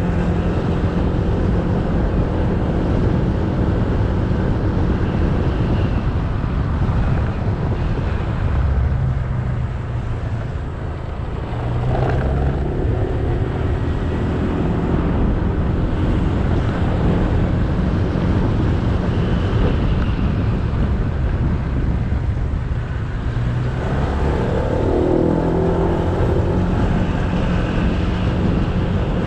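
Motorbike engine running while riding, heard from the bike with road and wind noise. It eases off about ten seconds in, then picks up again, and revs up with rising pitch a little before the end.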